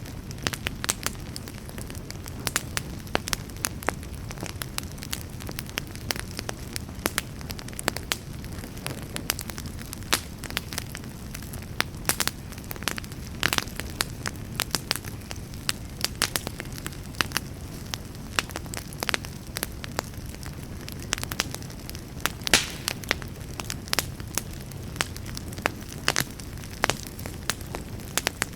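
Fireplace fire crackling: irregular sharp pops and snaps, several a second, over a steady low rumble of the flames. One louder pop comes about three-quarters of the way through.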